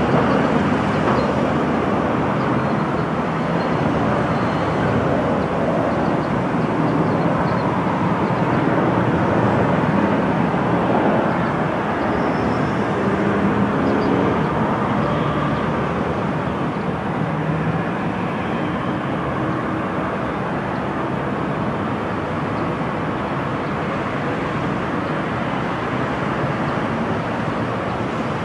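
Jet airliner engines running with a steady, even noise, easing off a little in the second half.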